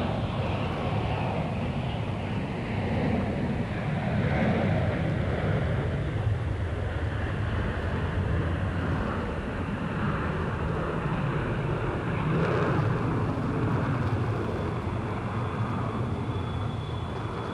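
Steady jet airliner engine noise from aircraft on the airfield, a low rumble with a wash of higher noise. A faint thin high whine joins it for the last few seconds.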